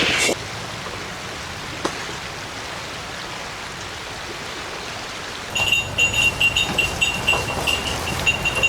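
A steady, even hiss of background noise. About five and a half seconds in, a small metal bell starts ringing in quick, uneven tinkles, several a second, always at the same pitch.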